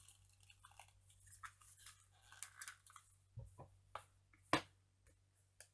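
Plastic toy packaging being handled and pried open: faint crinkling, then several sharp clicks and taps, the loudest about four and a half seconds in.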